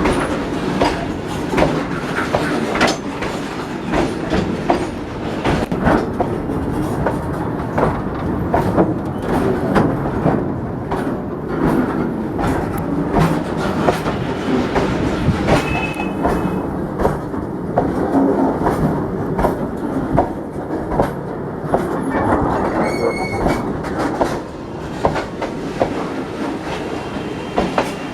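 Freight train of BOXN open wagons rolling past, wheels clacking steadily over rail joints, with two brief high wheel squeals in the second half.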